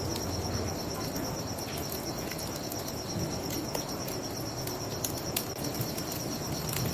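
Crickets chirping in a steady, fast, even pulse, with scattered sharp crackles from a wood fire over a low rushing background.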